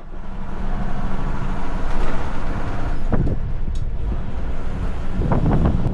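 1976 Mercedes 1113 truck's diesel engine running with a steady low rumble, fading in at the start.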